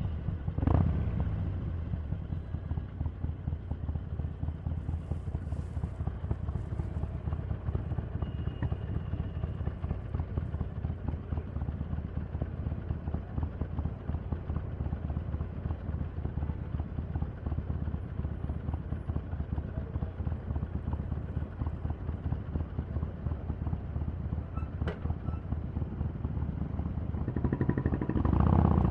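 Harley-Davidson 883's V-twin engine running at low revs, with a brief swell about a second in and a louder rev-up near the end.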